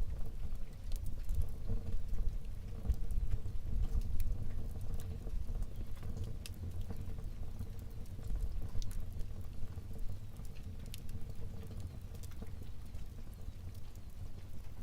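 Fire burning in a fireplace: a low, steady rumble of flames with scattered sharp crackles and pops throughout.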